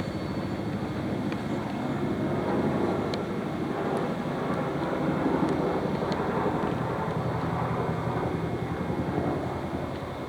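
Steady rumble of a running vehicle, swelling a little through the middle.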